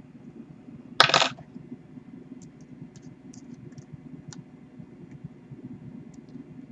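Light clicks and taps of small metal parts being handled while an RDA's coils and posts are adjusted, with one brief louder noisy burst about a second in, over a low steady hum.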